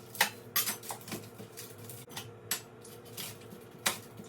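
Knife chopping an onion on a cutting board: sharp, unevenly spaced chops, roughly one every half second.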